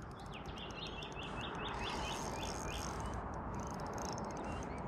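A bird calling a quick run of about ten short, high chirps in the first second and a half, over steady outdoor background noise.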